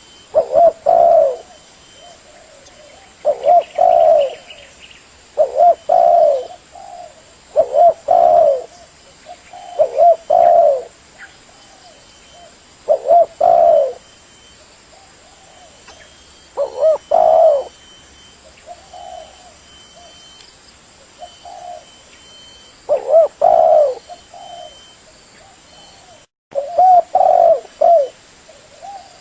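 Spotted dove cooing: a low phrase of several notes about a second long, repeated every two to three seconds, with a few fainter phrases in the middle.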